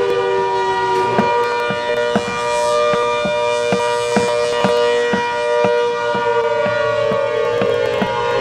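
ACA Hurricane civil defense siren sounding several steady tones at once, with a regular click about twice a second.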